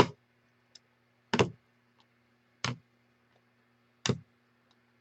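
Single clicks at a computer, four in all, spaced about a second and a half apart, as the randomizer is worked. A faint steady low hum lies underneath.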